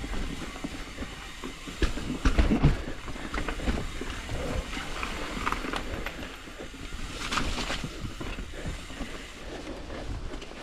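Hardtail mountain bike riding fast down a dry dirt trail: tyres rolling and crunching over the ground, with the chain and frame rattling and clattering over bumps. A few heavier knocks come about two seconds in.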